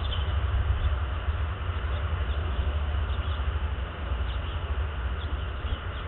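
Steady low outdoor rumble with faint, short, high bird chirps scattered about once a second.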